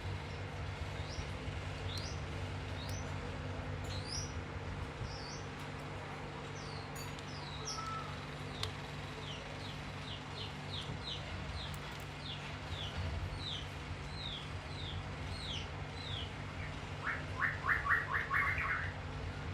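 Small bird chirping: a string of short rising chirps, about one a second and then quicker, ending near the end in a rapid trill of some ten notes, over a steady low hum.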